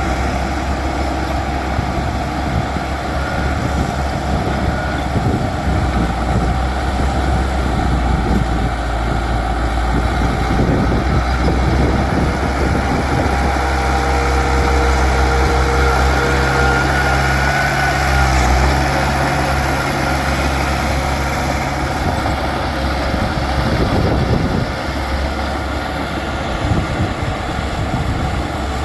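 Bulldozer's diesel engine running steadily while it works, with a low engine note standing out for several seconds midway.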